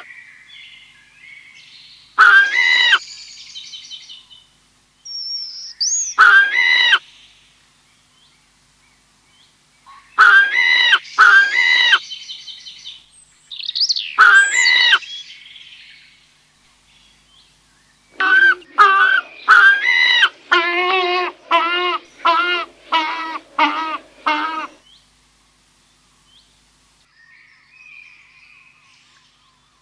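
Bird calls in short groups separated by pauses, then a quick run of about a dozen calls in a row.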